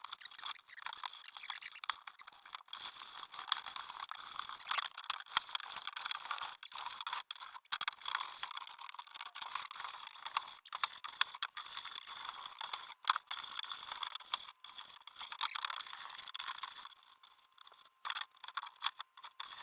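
A toothbrush scrubbing grimy wooden floorboards in quick, irregular strokes: a dense, scratchy rasp with many small clicks, working at ingrained black dirt that wiping will not lift.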